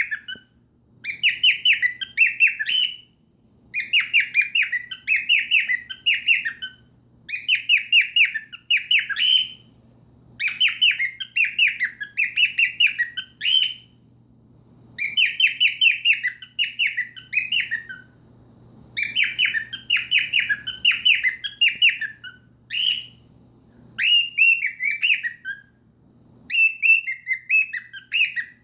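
Pet cockatiels singing: a run of whistled phrases, each a quick string of repeated notes lasting a second or two, with short pauses between.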